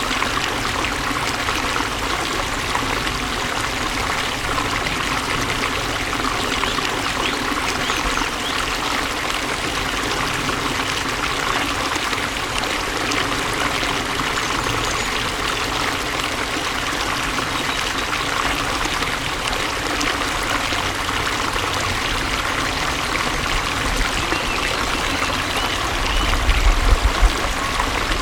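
Flowing water running steadily in a continuous rushing trickle, with a brief low rumble near the end.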